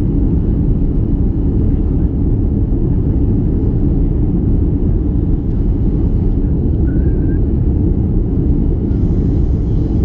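Airbus A330 engine and airflow noise heard inside the passenger cabin: a loud, steady, deep rumble.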